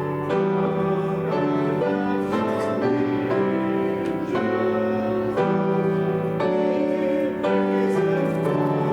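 Church keyboard playing a slow hymn in held chords that change about once a second.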